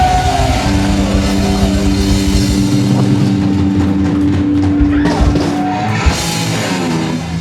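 Live punk rock band playing: distorted electric guitar chords held over a drum kit, with no vocals.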